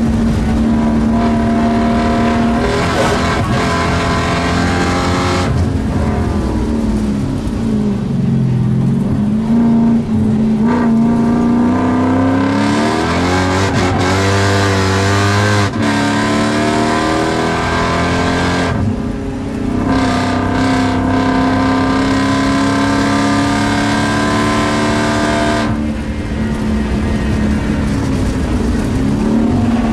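Car engine heard from inside the cabin while being driven hard on a race track. Its pitch climbs and falls, breaking off sharply about five times at gear changes and lifts for corners.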